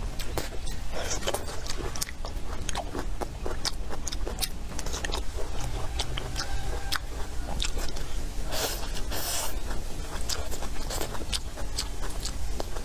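A person chewing a mouthful of braised pork trotter and peppers close to the microphone: a steady run of quick mouth clicks and smacks, with two short hisses about two-thirds of the way through.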